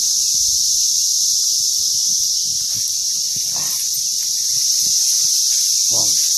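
Massed chorus of 17-year periodical cicadas: a loud, steady, unbroken high-pitched drone.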